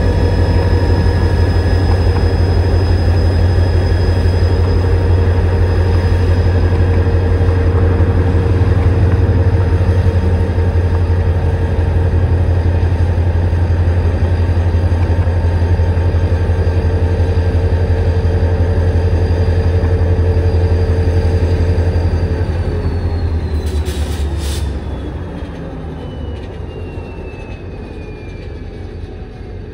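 Freight train in a rail yard: a loud steady low rumble with a high whine over it. About twenty-two seconds in, the whine glides slowly down in pitch and the rumble fades to a quieter level.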